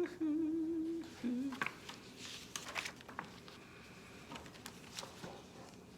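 A brief hum from a person: one wavering note for about a second, then a short lower one. It is followed by light rustling and soft clicks of paper being handled as the mail is looked through.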